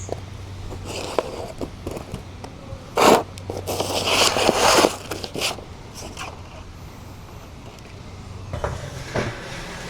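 Objects being lifted off sheets of paper by hand: scattered knocks and clicks, a short loud scrape about three seconds in, then paper rustling and scraping for about a second and a half.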